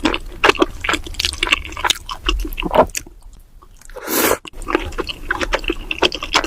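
Close-miked chewing of cheesy rose tteokbokki: sticky, wet smacking and squishing of chewy rice cakes in creamy sauce. There is a brief pause about three seconds in, then a short hiss-like burst, then the chewing resumes.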